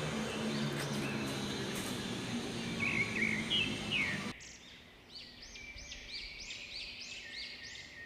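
Birds calling in an aviary. First comes a noisy background with a low steady hum and a few scattered chirps. About four seconds in, this gives way to one bird repeating a short rising-and-falling chirp about three times a second.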